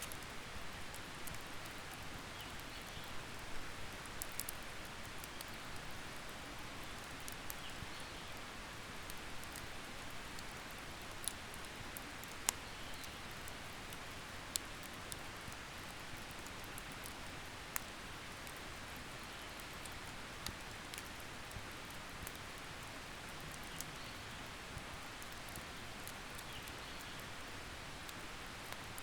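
Wood campfire crackling: a steady hiss of small crackles with a sharp pop every few seconds. Faint bird chirps come through now and then.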